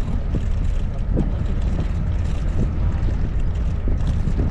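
Steady low rumble of a safari vehicle's engine, with wind buffeting the microphone.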